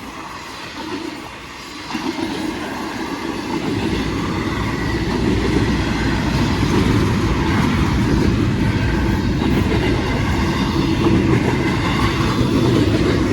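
Freight train rolling past on the Norfolk Southern line, its rumble building over the first few seconds and then holding steady and loud.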